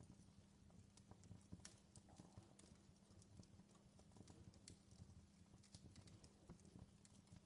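Faint crackling of a wood fire in a fireplace, with irregular small snaps and pops.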